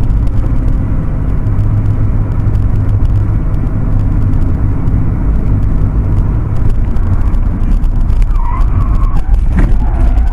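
Motor vehicle running with a loud, steady low rumble, with crackling clicks throughout.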